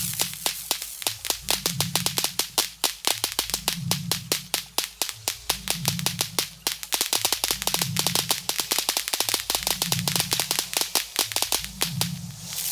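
Rapid string of sharp cracks from a firework compound battery, several a second, with short pauses between runs. Under it a low bass note repeats about every second and a half.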